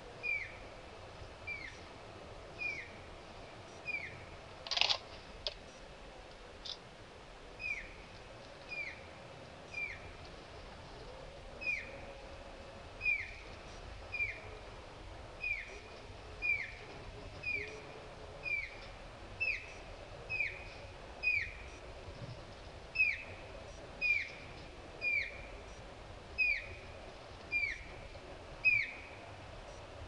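Grey-headed canary flycatcher calling: a short, high, down-slurred note repeated about once a second. One louder, sharper note comes about five seconds in.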